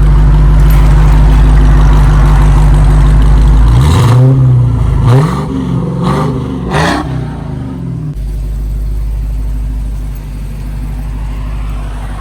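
Dodge Charger Hellcat's supercharged 6.2-litre V8 on its stock exhaust, mid mufflers not yet deleted. It runs loud and steady, is blipped in about four quick revs in the middle, then settles to a quieter idle.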